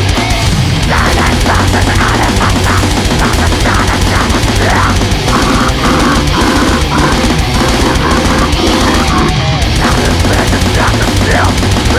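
Loud, dense extreme metal music: heavily distorted riffing over continuous heavy drums, without a break.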